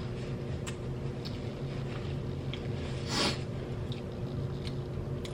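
Close-up eating noises from a person chewing: scattered soft mouth clicks and one short, louder noisy sound about three seconds in, over a steady low hum.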